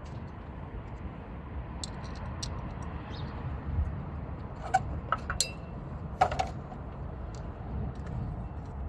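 Metal hand tools and parts clinking, a few sharp clinks clustered around the middle, over a steady low rumble.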